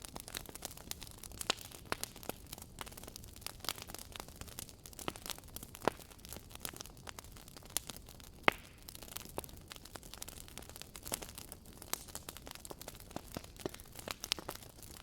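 Wood fire crackling: irregular sharp pops and snaps over a low steady hiss, with one louder pop about eight and a half seconds in.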